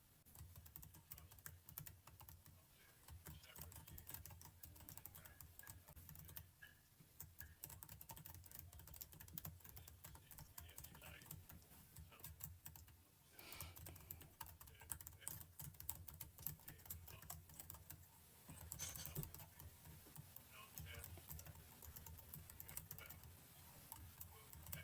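Faint computer keyboard typing: keys clicking in quick, irregular runs.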